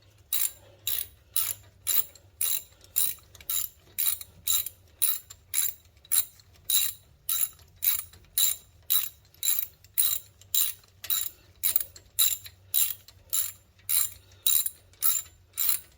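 Hand ratchet wrench clicking in a steady rhythm, about two clicks a second, as a brake bolt is run in until it is tight.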